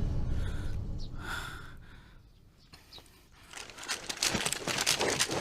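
Music fading out, then a person breathing hard in two audible puffs, followed by a stretch of dense crackling rustle.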